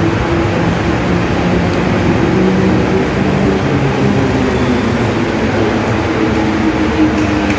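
Central Railway Mumbai local electric train beside the platform: a steady rumble with a low, slowly wavering hum.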